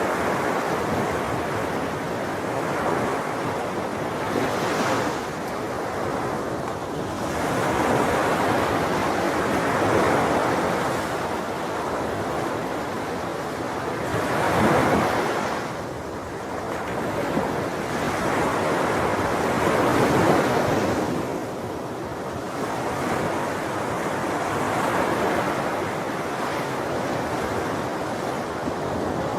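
Ocean waves washing in, a continuous rushing that swells and ebbs every four to six seconds.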